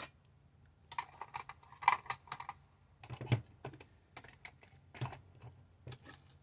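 Hands handling a vinyl wrap sheet and a tumbler: irregular light clicks and short crinkling taps, busiest in the first half.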